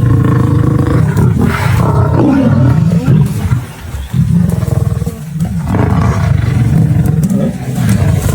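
A large wild animal calling loudly in a deep, drawn-out voice, with a short break about four seconds in.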